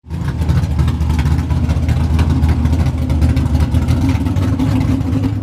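A loud car engine running steadily with a rapid pulsing beat, starting abruptly.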